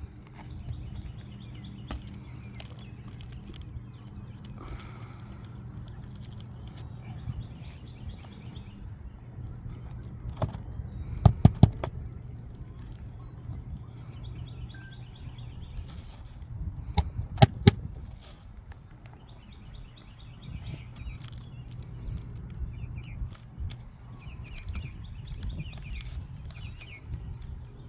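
Two quick clusters of sharp knocks, three or four in each, about eleven and seventeen seconds in, over a steady low hum. Faint birdsong chirps now and then.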